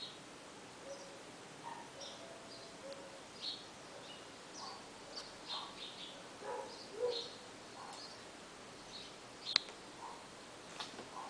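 Small birds chirping in short, irregular calls, with a single sharp click about nine and a half seconds in.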